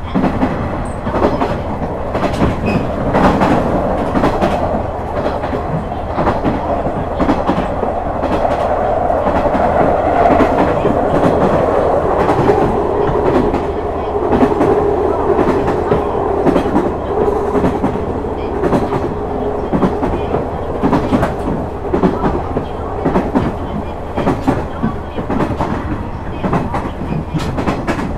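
KiHa 126 series diesel railcar running at speed, heard from inside: steady engine and running noise with the wheels clicking rhythmically over rail joints. The engine tone drops in pitch about halfway through.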